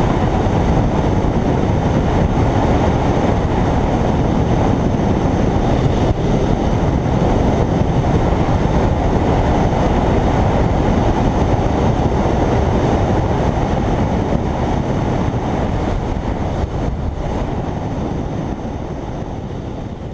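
Riding noise from a Kawasaki Ninja 300 motorcycle on the move: steady wind rush over the microphone mixed with engine and road noise. It grows gradually quieter over the last few seconds.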